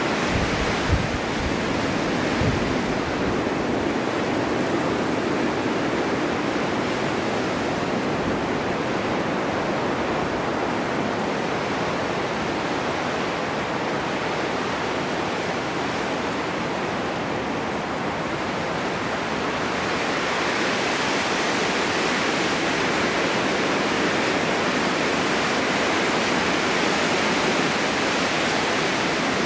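Snowstorm wind blowing steadily, an even rushing hiss that grows a little brighter about two-thirds of the way through. A few soft low thumps near the start.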